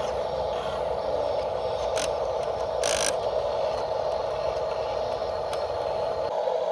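Electric motor and gearing of a radio-controlled construction model running with a steady hum, with a sharp click about two seconds in and a brief scrape about a second later.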